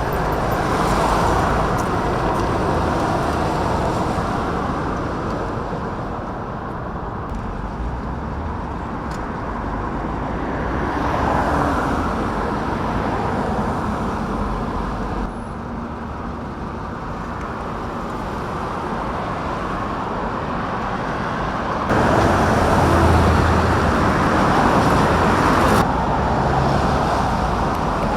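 Steady rumble of vehicle engines and road noise, changing abruptly several times: a drop a little past halfway, then louder again for a few seconds near the end.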